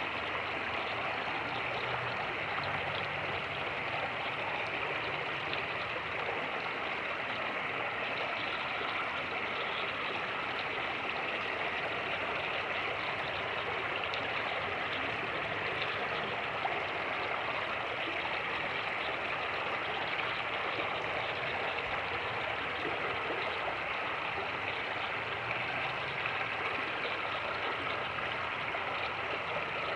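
Fast-moving creek: water rushing in a steady, even wash with no breaks.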